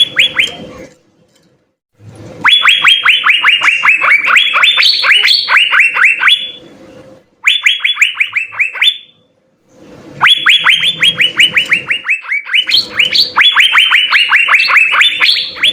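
Asian fairy-bluebirds singing: loud, fast runs of short high notes, each dropping sharply in pitch, about seven a second, in phrases of one to five seconds with short pauses between. Some phrases climb a step higher near their end.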